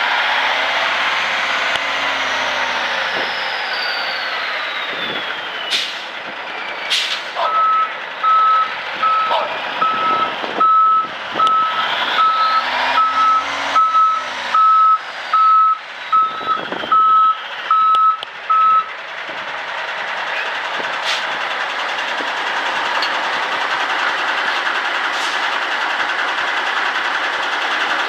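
Backup alarm on a 1986 Kenworth W900 dump truck beeping steadily, roughly once a second, as the truck reverses. The beeps start about seven seconds in and stop about eleven seconds later, over the sound of the running truck.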